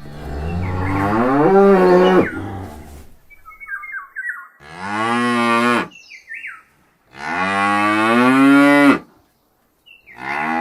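Cow mooing: three long, drawn-out moos and a fourth beginning near the end, with short high chirps in the gaps between them.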